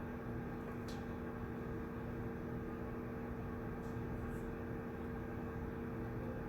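Steady room tone of a shared study room: a constant mechanical hum with a low steady pitch, plus faint small ticks about a second in and again around four seconds in.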